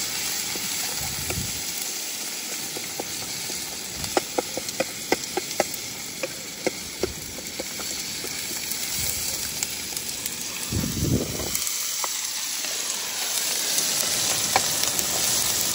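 Chopped onions and tomatoes sizzling in oil in a frying pan on a camping gas stove, stirred with a wooden spatula. A run of light taps and scrapes of the spatula on the pan sounds a few seconds in.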